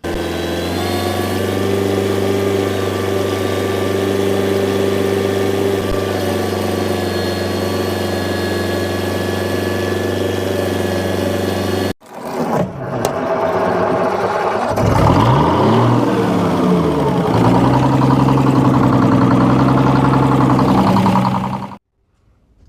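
Two engine recordings, one after the other. First a steady engine running at an even idle for about twelve seconds, cut off abruptly; then a second engine that revs up and down before settling at a steady speed, cut off near the end.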